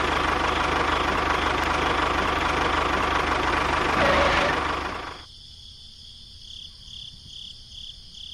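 A small engine runs with a rough, knocking idle and dies away about five seconds in. After that comes a faint, high-pitched pulsing, about two or three pulses a second.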